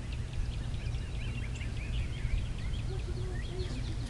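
Small birds chirping and twittering in many quick, short notes, over a steady low rumble.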